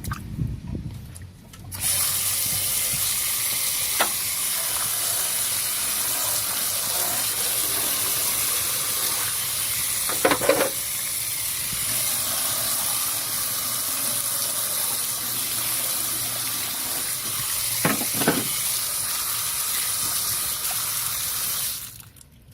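Steady loud hiss, strongest in the treble, that switches on suddenly about two seconds in and cuts off near the end, with a few short crackles in between.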